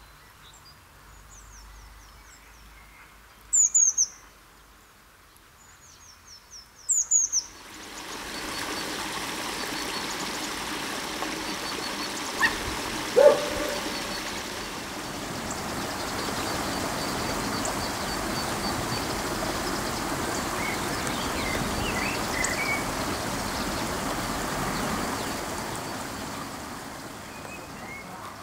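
Birds singing: two loud, high, downward-sweeping phrases in the first half, then from about eight seconds in a steady rushing background with scattered faint chirps and a short lower call.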